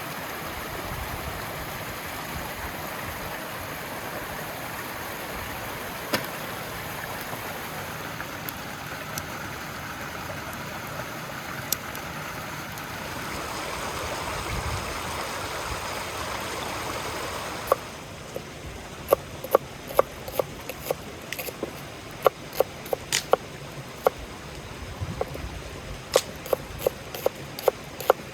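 River water flowing steadily. About 18 seconds in, the steady rush drops away abruptly to quieter surroundings, and a run of sharp, irregular knocks and clicks follows.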